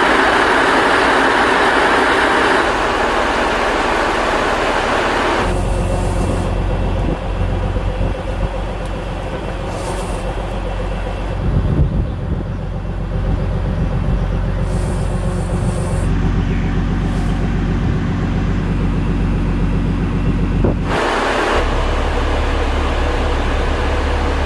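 Cargo boat's engine running steadily, with no let-up. The sound changes abruptly twice: brighter and hissier at first, then a heavy low rumble from about five seconds in until about twenty-one seconds, then brighter again.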